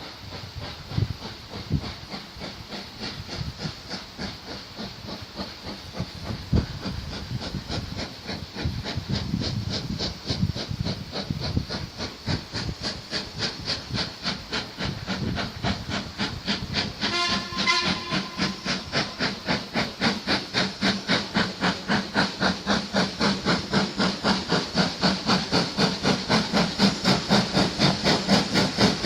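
Ivatt Class 2MT steam tank locomotive working, its exhaust beating rhythmically and growing louder, about three beats a second by the end. A short whistle sounds about seventeen seconds in.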